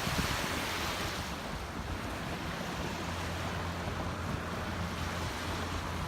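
Steady wind rushing over the microphone, with small waves washing onto the beach.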